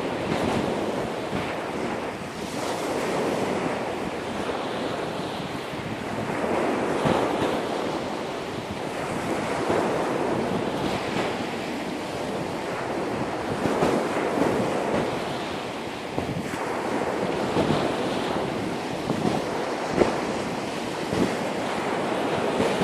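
Sea waves washing in on a beach, the surge rising and falling every few seconds, with wind buffeting the microphone and a few short sharp pops.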